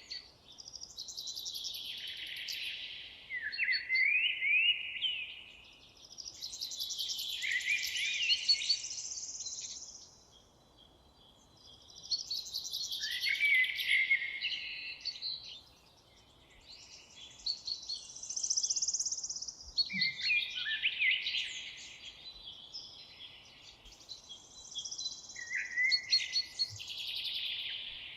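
Several songbirds singing at once, in overlapping phrases of warbles, trills and quick rising notes. The song comes in bouts a few seconds long with short lulls between them.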